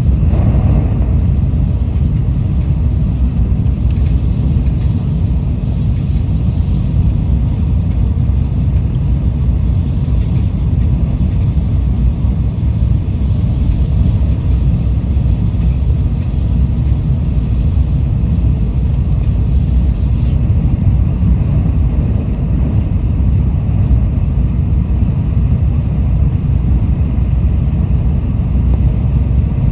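Tokaido Shinkansen train running at speed, heard from on board: a steady low rumble of running noise that holds even throughout.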